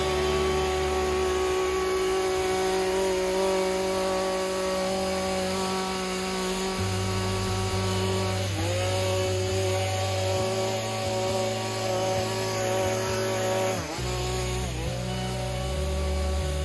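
Petrol hedge trimmer running at high revs, its engine note dipping briefly three times in the second half as the blades bite into the hedge and then picking back up.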